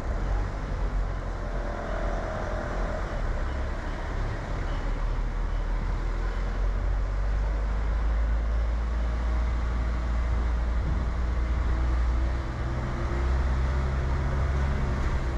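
A car driving at town speeds: a steady low rumble of engine and tyre noise, with faint traffic sounds around it.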